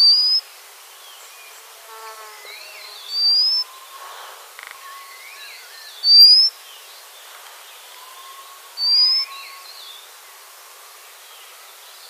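White-capped redstart giving a loud, thin, rising whistled call four times, about every three seconds, each about half a second long. Fainter calls of other birds run underneath.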